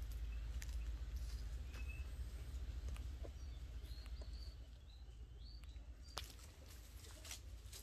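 Outdoor ambience: a few short bird chirps over a steady low rumble, with a few sharp clicks near the end.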